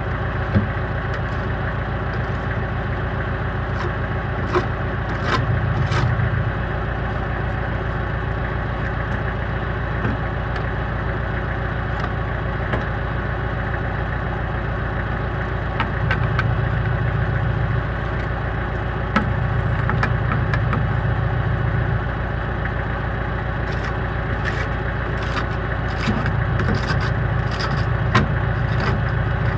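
Farm tractor engine running steadily, its low drone swelling a little now and then, with scattered short clicks and rattles.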